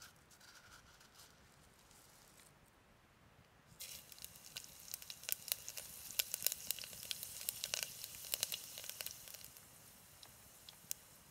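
Food sizzling in hot oil, with a hiss and many sharp spitting crackles that start suddenly about four seconds in and ease off near the end.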